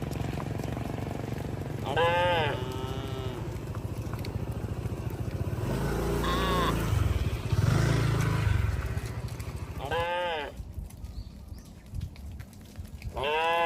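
Cattle mooing: four separate calls a few seconds apart. A low, steady rumble runs beneath them and stops about ten seconds in.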